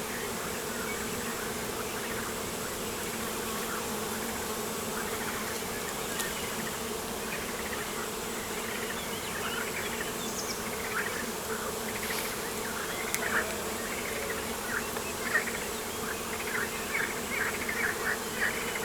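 Steady buzzing drone of flying insects, a low even hum, with a run of short high chirps that grows busier over the second half.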